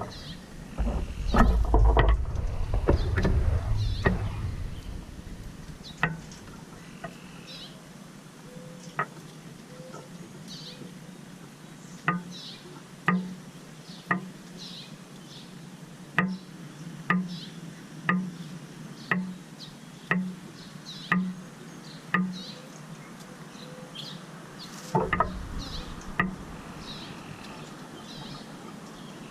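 Small birds at a feeder giving short high chirps throughout, with a run of sharp taps about once a second in the middle, a bird pecking at the feeder. Low thumps and rumbles come near the start and again near the end.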